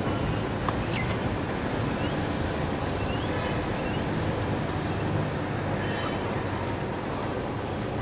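A steady low rumble fills the sound, with a few faint, short, upward-sweeping bird chirps above it, mostly between two and four seconds in and once more near six seconds.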